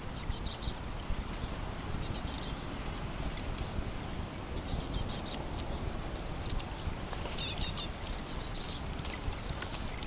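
Small songbirds calling in about five short bursts of rapid, very high chirps, over a low steady rumble, with a few faint clicks.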